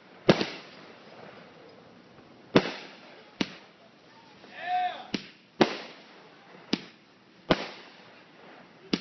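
Consumer aerial fireworks going off: about eight sharp bangs at irregular intervals, each with a short echoing tail. A brief pitched sound rises and falls about halfway through.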